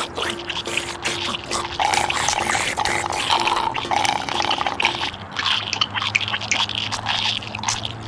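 Wet liquid noise, dripping and splashing, made of many small clicks over a faint steady hum that drops lower about five seconds in.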